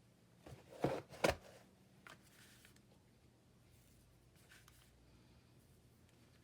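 Two short knocks about a second in, followed by faint rustling and light ticks of paper craft materials being handled on a tabletop.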